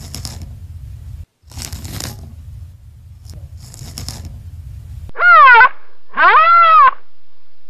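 An animal's breathy noise bursts about two seconds apart, three times, over a low rumble, then two loud calls that rise and fall in pitch.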